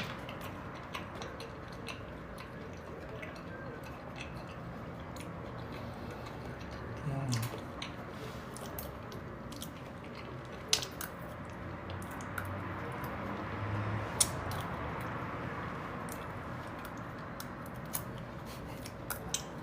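Eating sounds: scattered light clicks of cutlery against a dish and soft wet chewing of okra stew with rice. There is a brief low vocal hum about seven seconds in.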